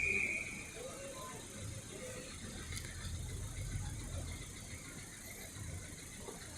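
Faint low engine rumble, uneven and without a clear beat, with a short steady high tone for under a second at the start.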